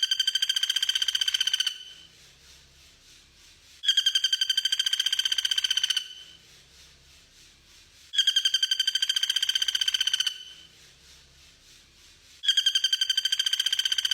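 Bird song for song-bird training: a rapid, pulsing, buzzy trill about two seconds long, repeated the same way about every four seconds, four times.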